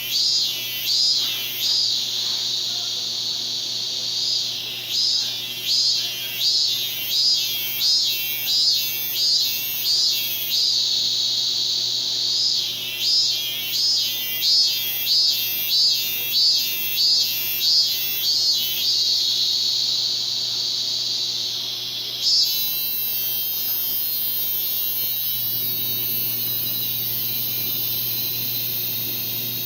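A cicada calling: a run of pulsed buzzing notes about two a second, twice drawn out into a long steady buzz, then from about two-thirds in a higher, hissier steady buzz. A faint steady electrical hum lies underneath.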